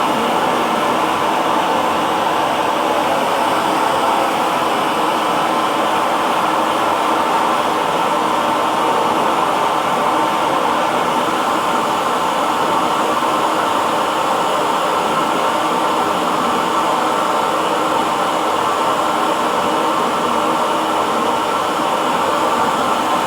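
Hand-held hair dryer running continuously, a steady even blowing hum with a faint whine in it.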